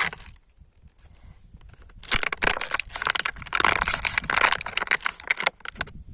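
Something crunchy being crushed under a car tyre: a dense run of crunching and crackling that starts about two seconds in and lasts about three and a half seconds, after a single sharp click at the start.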